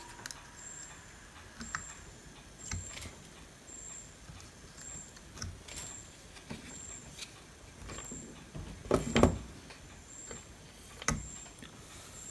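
Light clicks and taps of hand tools on a circuit board during desoldering work, with a louder cluster of clicks about nine seconds in and a sharp tap about two seconds later. A faint high pip repeats about every three-quarters of a second.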